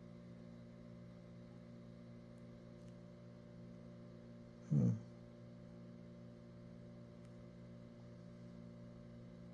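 Steady low hum from the running computer during its diagnostic fan test, with one short, louder low sound a little under halfway through.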